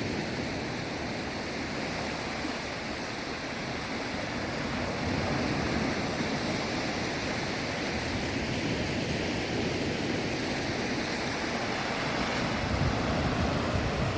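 Sea waves washing onto the shore, a steady rushing noise.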